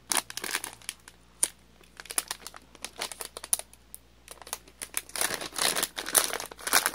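Packet of Parikori gummy candy being opened by hand: irregular crinkling and crackling of the wrapper, thickest in a busy run near the end.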